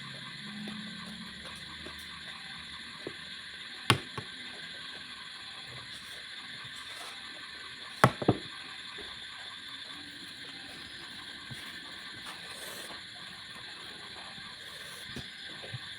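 Eating sounds over a steady hiss: a sharp click about four seconds in and a louder pair of clicks about eight seconds in.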